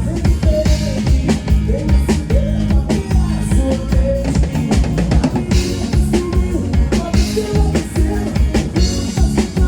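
Live band playing amplified music on a stage sound feed, driven by a steady drum-kit beat with a heavy bass drum and a melody line over it.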